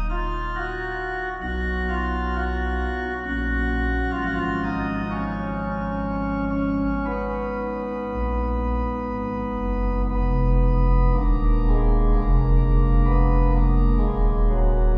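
Organ music: slow, sustained chords with deep bass notes, shifting every second or two and swelling louder about two-thirds of the way through.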